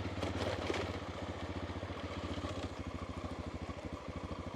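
Honda Dominator's single-cylinder four-stroke engine running at low, steady revs while riding, with a rapid even beat. A few light clatters sound within the first second.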